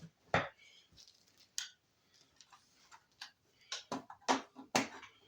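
Irregular small clicks and taps of speedometer and odometer parts being handled, with a quick cluster of them near the end.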